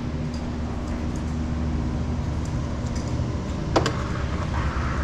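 Steady background hum and low rumble of a large hall's ventilation, with a single sharp click a little under four seconds in.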